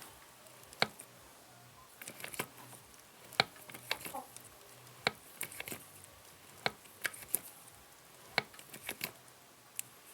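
Sharp clicks and knocks, irregularly spaced, roughly one every second, from a freshly resealed 5-ton hydraulic jack being worked during a test lift.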